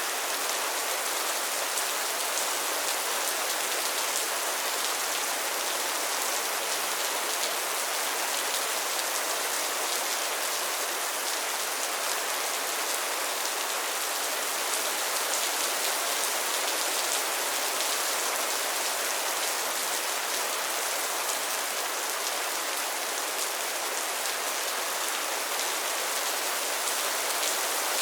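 Steady rain falling on pond water and lily pads, a dense even hiss of many small drop ticks.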